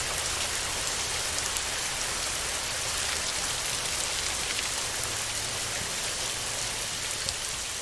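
Steady rain falling, a dense even hiss with scattered sharp ticks of single drops.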